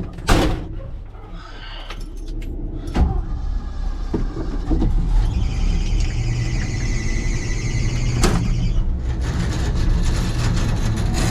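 Heavy dump truck's engine running and pulling, with a sharp clunk near the start and a high squeal for about four seconds in the middle. The driver suspects the transmission: low on fluid or worn out.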